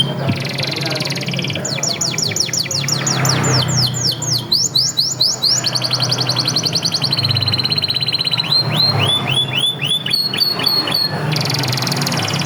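Domestic canary singing a continuous song of fast repeated phrases: runs of downward-sweeping whistles, a rapid buzzy trill and a steady high note, switching from one phrase to the next every second or two.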